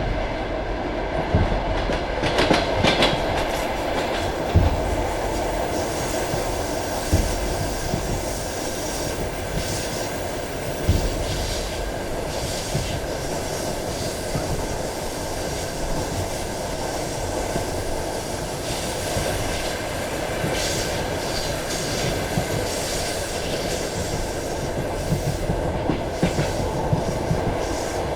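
Passenger train carriage running at speed: a steady rumble and rattle of the wheels on the track, with an occasional sharper knock of the wheels over rail joints.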